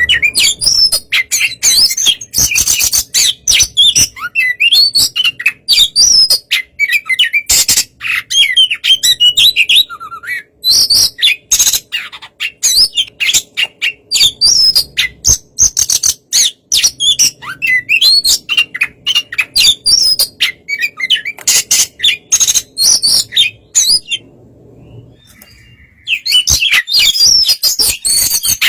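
Oriental magpie-robin (kacer) singing a fast, varied run of loud chirps, whistles and sharp notes: a 'fighter' song of the kind played to provoke other magpie-robins into singing. The song breaks off for about two seconds near the end, then starts again.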